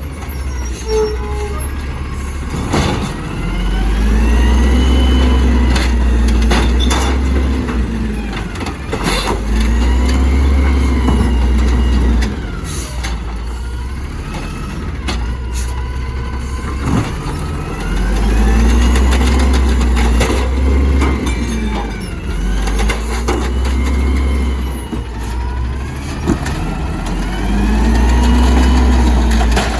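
Garbage truck working: its engine revs up in repeated surges of a few seconds each, with a whine that rises and falls in pitch alongside, and sharp clanks in between.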